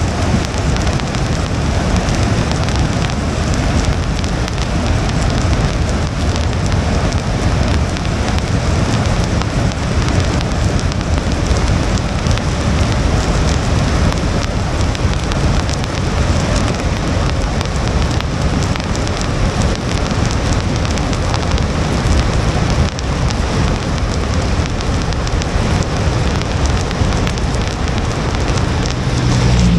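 Rain falling on a moving car's windshield, over a steady rumble and hiss of tyres on a wet road.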